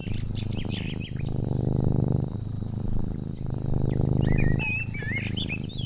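Forest ambience: a steady chorus of insects with quick bird chirps near the start and again in the last two seconds, over a low pulsing music bed.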